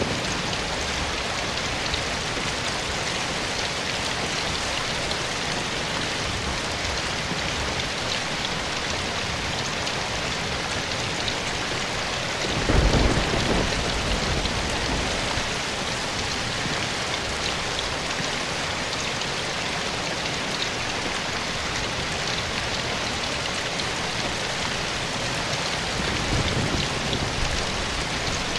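Steady rain falling and pattering on surfaces. About halfway through, a brief low rumble swells up and fades, with a smaller one near the end.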